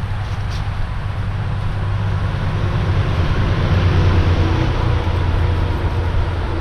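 A motor vehicle passing by with a steady rumble that grows louder, peaks about four seconds in, then fades.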